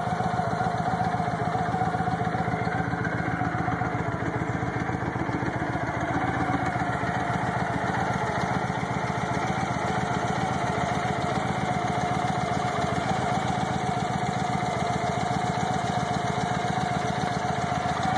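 2009 Victory Jackpot's 106 cubic-inch V-twin, with a stage 1 tune and a Cobra 2-into-1 exhaust, idling steadily.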